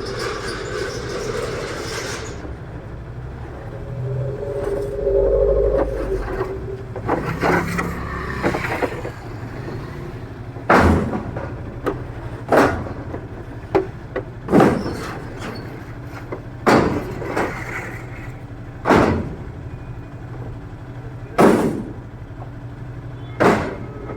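Street traffic with vehicles running. From about the middle on, sharp knocks come roughly every two seconds.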